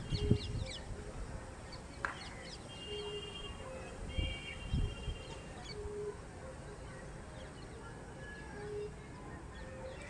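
Birds chirping and calling: short high chirps and whistles, and a low short note repeating every second or few. A couple of low thumps come in near the start and about five seconds in.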